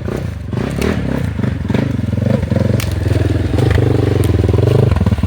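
Off-road vehicle engine running at low, varying throttle over rough trail, with scattered knocks and clatter from the rocks and ground.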